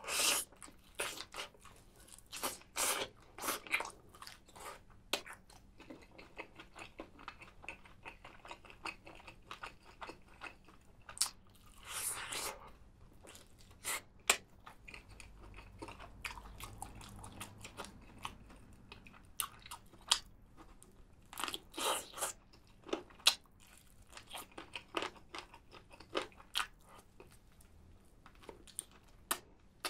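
Close-miked biting and chewing of a spicy roast chicken drumstick: crunchy bites and chewing in clusters with quieter gaps, loudest just after the start, about twelve seconds in and about twenty-two seconds in.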